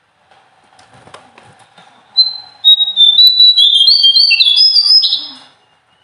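A small songbird singing a loud, fast burst of clear, high whistled notes that step from pitch to pitch and climb higher toward the end. The song starts about two seconds in and stops about three seconds later.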